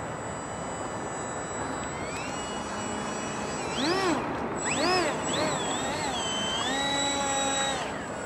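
Electric motor and propeller of a radio-controlled seaplane whining over steady wind noise. The whine comes up in pitch, swings up and down twice in quick throttle bursts, then holds steady before dropping away near the end. The motor is running on a nearly flat battery.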